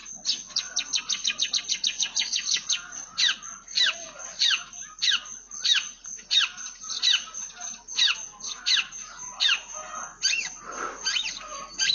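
Long-tailed shrike singing a run of sharp, downward-sliding chirps that imitate Eurasian tree sparrow calls. It opens with a fast volley of about ten chirps a second, then slows to spaced chirps about one and a half a second apart.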